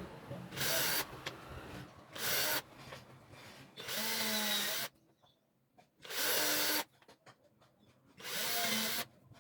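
Power drill run in five short bursts of about half a second to a second each, with short pauses between, as in driving screws or drilling into wood.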